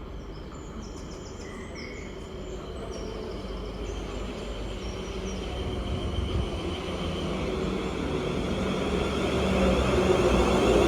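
A train approaching, growing steadily louder, with a steady hum and a low rumble under it.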